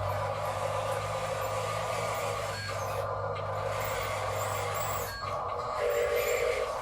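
Radio-controlled construction models running: a steady whir of small electric motors and gearing, with a low hum that stops about five seconds in and a brief higher tone near the end.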